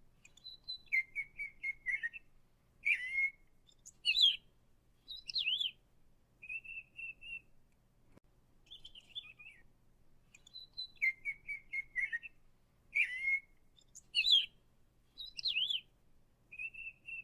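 Songbird chirping and whistling: short trills, rising and falling whistled notes and a steady buzzy note, the same sequence of calls repeating about every ten seconds.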